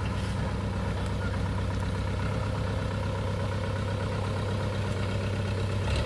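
Truck engine running steadily at low revs.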